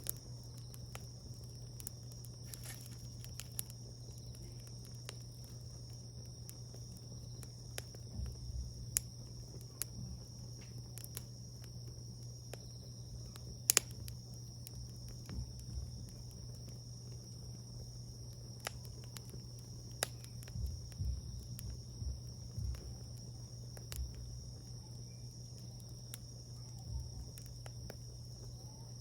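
Wood fire crackling, with irregular sharp pops and snaps, the loudest about 14 seconds in, over a steady high insect trill from crickets and a low steady hum.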